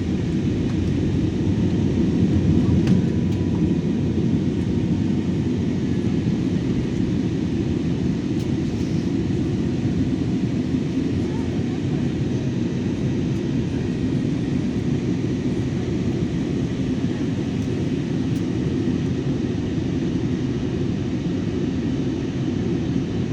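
Steady drone of an airliner's engines and airflow heard inside the passenger cabin, a deep, even rumble that swells a little about three seconds in.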